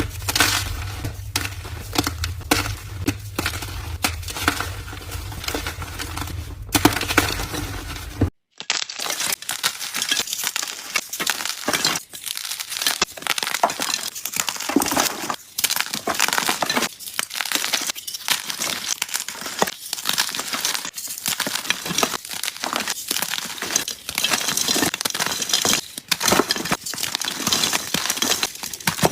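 Blocks of gym chalk being crushed, a dense run of crunching and crumbling crackle. About eight seconds in it cuts off abruptly and resumes as a crisper, drier crumbling without the low hum that sits under the first part.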